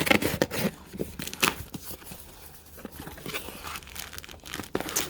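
Packaging being handled and torn open while items are unpacked from a box: irregular rustling and crinkling with many small sharp crackles.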